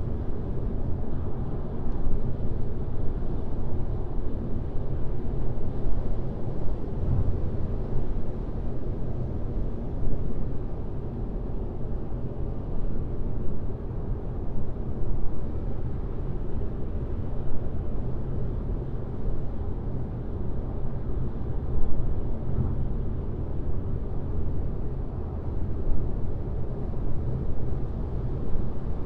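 Steady road noise of a car driving on a highway, a low hum of tyres and engine that swells slightly now and then.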